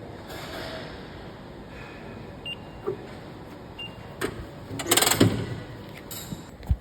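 Street traffic noise, with a loud rustle and knock about five seconds in.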